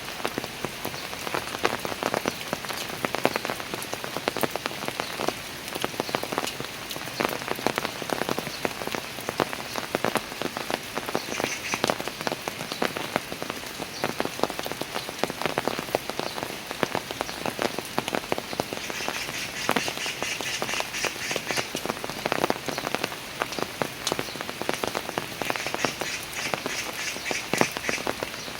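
Steady rain, with a dense patter of individual drops striking hard surfaces. Three times, about halfway through, later on and near the end, a frog calls in a rapid pulsed trill over the rain.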